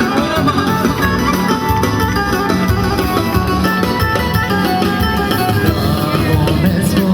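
Live Albanian wedding-band music, an instrumental passage with a plucked-string lead over a steady beat.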